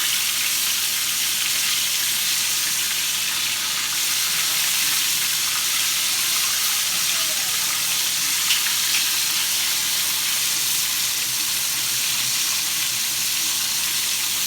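Chicken wings frying in hot oil in a pan: a steady, dense sizzle, with one sharper pop about halfway through.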